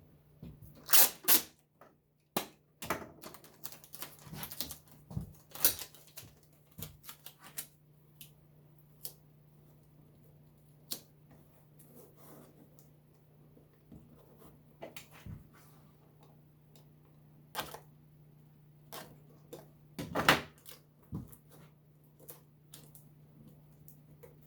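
Irregular clicks, taps and crinkles from hand work on a foam-and-paper headliner board with masking tape and small spring clamps, the loudest about a second in and again about 20 seconds in, over a steady low hum.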